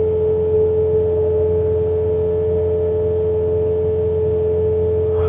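Bobcat T66 compact track loader running at full throttle while driving its snowblower attachment: a steady low engine drone with a strong, unchanging whine on top.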